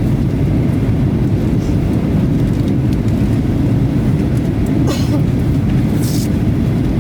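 Steady low rumble of a jet airliner heard from inside the cabin during the approach to landing, with two short hisses about five and six seconds in.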